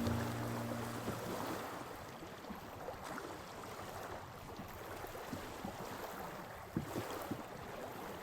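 Small waves lapping at a lake shore, a faint even wash with a few soft knocks near the end. Music fades out at the start.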